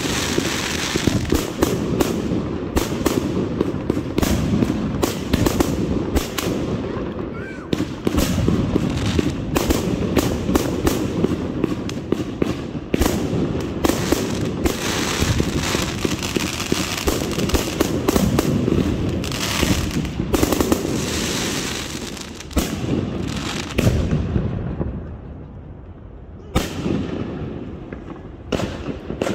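Consumer aerial fireworks firing a rapid barrage of launches and bursting shells with crackle. The barrage dies down about 24 seconds in, with a few last pops near the end.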